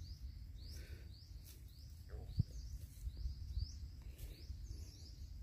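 A bird calling faintly and repeatedly: short, high, falling notes at a steady pace, over a low rumble.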